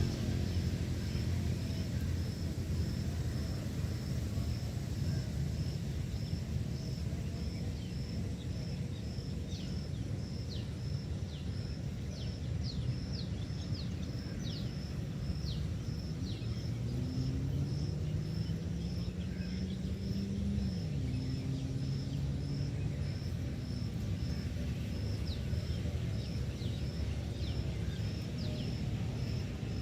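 Outdoor ambience: a steady low rumble with a high chirp repeating regularly, about twice a second. A run of short falling whistles comes in the middle, and a low rising drone like a passing engine is heard about two-thirds of the way through.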